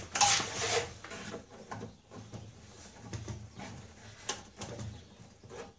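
The excess tail of a metal Jubilee clip (worm-drive hose clamp) band being cut off: a short rasping scrape through the first second, then scattered light clicks and knocks of metal handling, with one sharper click about four seconds in.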